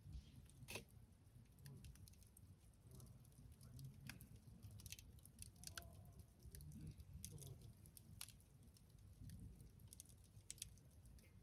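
Faint crackling of a wood campfire: scattered small pops and ticks at irregular moments, over a low rumble.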